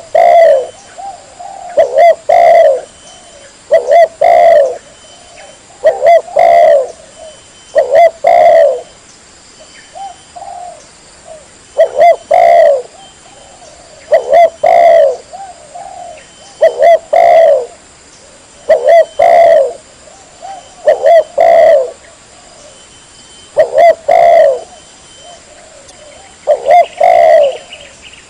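Spotted dove cooing, clear and loud: a short phrase of several coos repeated about every two seconds.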